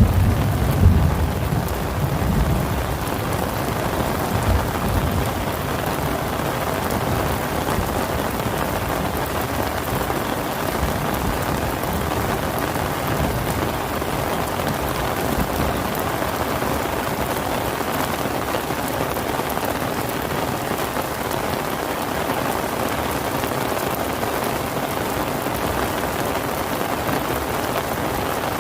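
Steady rain pouring down, with a low rumble of thunder over the first few seconds that fades away.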